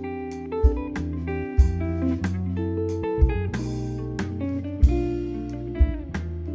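Live instrumental band music: electric guitar playing notes and chords over a bass line, with percussion hits through it and a cymbal crash about three and a half seconds in.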